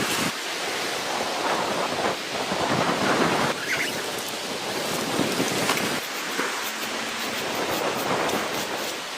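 Heavy rain falling with gusting wind, a dense hiss that swells and eases every second or so.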